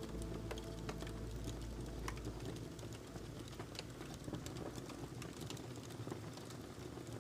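Wood fire crackling, with irregular small snaps and pops over a faint hiss. Soft music fades out in the first couple of seconds.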